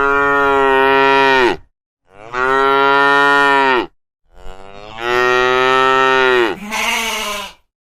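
Cow mooing: three long moos of about one and a half seconds each, steady in pitch and dropping at the end, the last followed by a short rougher call.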